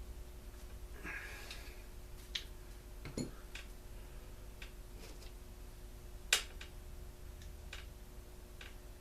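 Scattered light clicks and knocks of small parts and tools being handled during a leaf blower's disassembly, with a short clatter about a second in and a sharp click about six seconds in, over a faint steady hum.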